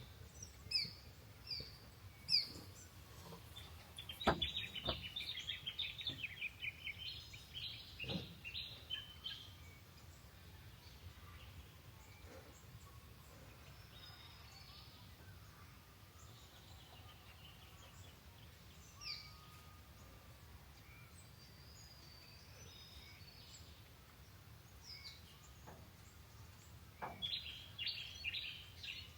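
Birds chirping: scattered short calls and two spells of rapid, repeated chirping, one from about four seconds in and one near the end. A few sharp clicks cut in, the loudest about four seconds in.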